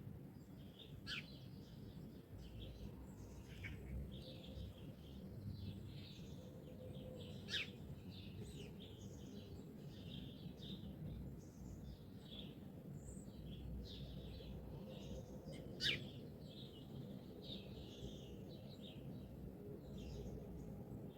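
Songbirds chirping and singing in a morning chorus, many short calls overlapping, over a steady low background rumble. Three sharp, brief sounds stand out, the loudest about sixteen seconds in.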